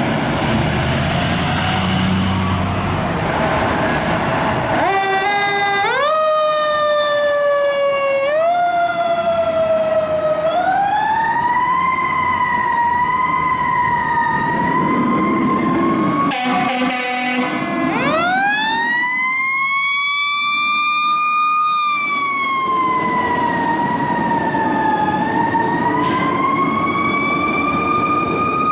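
Fire apparatus siren winding up in several rising steps, then wailing up and down. Partway through, a short air-horn blast cuts across it, then the siren winds up again. Diesel engine and road noise sit underneath.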